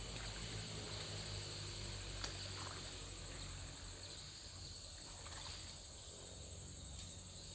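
Steady high-pitched chirring of forest insects, with a low rumble underneath and a single sharp click about two seconds in.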